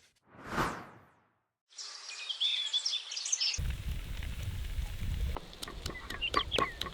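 Birds chirping over a steady outdoor background, after a brief swell of noise under a second in. A low rumble sets in abruptly about three and a half seconds in and stops about two seconds later, and scattered clicks and chirps follow.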